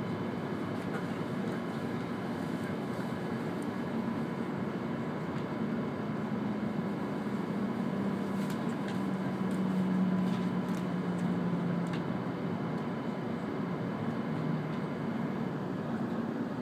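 Running noise of an E2 series Shinkansen heard inside the passenger cabin: a steady rumble with a low hum and a few faint ticks.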